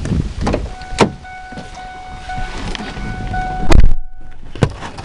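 A vehicle door being handled, with a steady electronic warning chime, then the door slammed shut about three and a half seconds in; the rain noise drops away once the door is closed.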